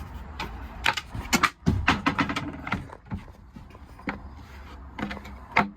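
A series of sharp knocks and clicks at uneven intervals as a camper's fold-out table extension is handled and its release catch worked, over a low steady hum.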